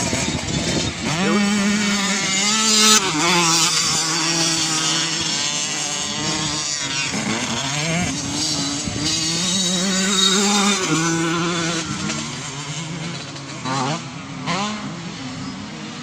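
Dirt bike engine revving up and shifting through the gears, its pitch climbing, holding, then dropping with each gear change. It fades as the bike moves away, with two brief throttle blips near the end.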